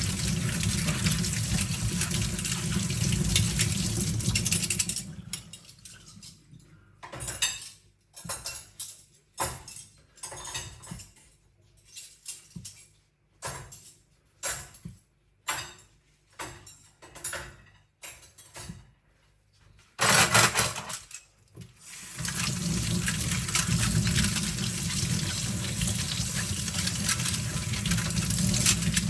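Kitchen tap running over metal cutlery being rinsed. About five seconds in the water stops, and forks and spoons clink and rattle against each other in short separate bursts for some fifteen seconds. The tap then runs steadily again near the end.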